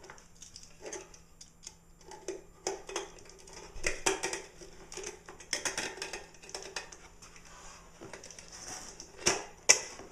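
A knife cutting apart a 15-inch subwoofer: irregular scraping, crackling strokes, with two sharp clicks near the end.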